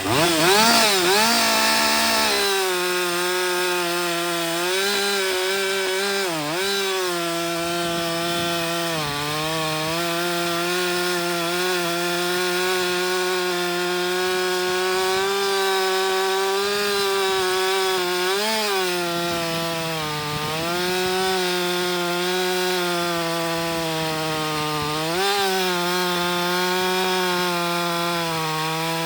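Two-stroke chainsaw revving up and then held at full throttle through a long cut in a log, its pitch dipping briefly a few times under load. The chain has just been reground after a poor hand filing and is being test-cut.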